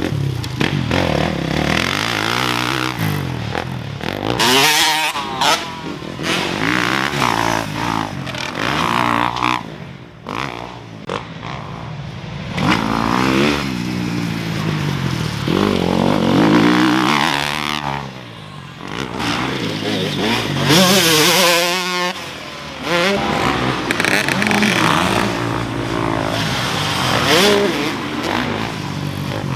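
KTM SX150 single-cylinder two-stroke dirt bike engine ridden hard, its pitch climbing and dropping again and again as the rider opens the throttle, shifts and backs off, with brief drops in loudness when the throttle is closed.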